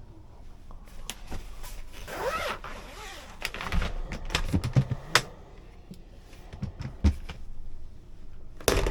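Handling noises: scattered clicks and knocks, with a short rising scrape about two seconds in.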